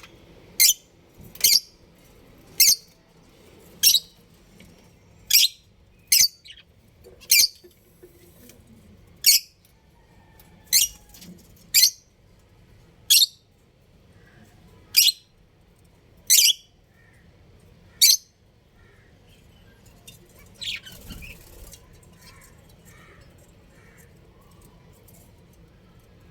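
A small pet parrot repeating short, sharp, high calls, about fifteen of them at roughly one a second or so. They stop about eighteen seconds in, leaving a few fainter chirps.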